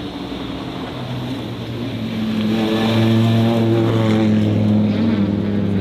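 A race car's engine running at steady revs, with one even drone that grows louder about two seconds in and then holds.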